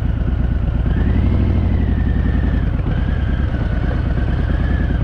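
Harley-Davidson Fat Boy's air-cooled V-twin engine running, with a slight rise in pitch about a second in that eases off again.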